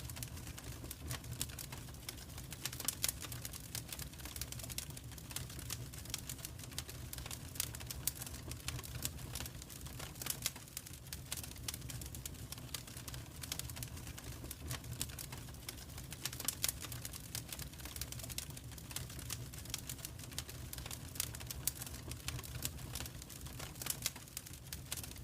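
Wood fire crackling: irregular pops and snaps over a low, steady rumble.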